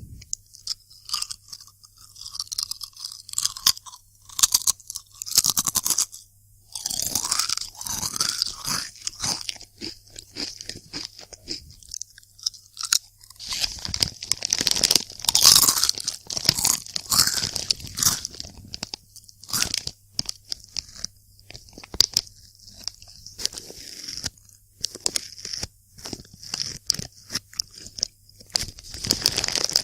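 Close-miked crunching and chewing of multigrain crisps, a dense, irregular run of crackly bites.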